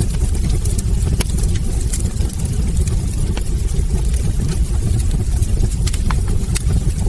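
Wood fire burning in a hearth: a steady low rumble of flames with scattered sharp crackles and pops from the logs.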